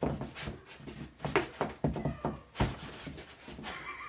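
Shoes scuffing and shuffling on a floor for foley footsteps: irregular scrapes and thuds. A short wavering high squeak comes near the end.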